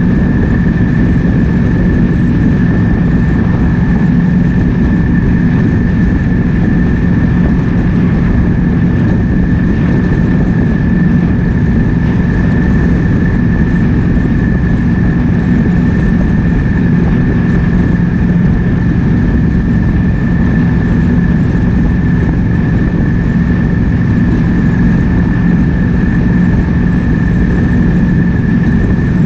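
Triumph Speed Twin 1200's parallel-twin engine running steadily at cruising speed, with wind rushing over the microphone. The engine note holds level, with no revving up or down.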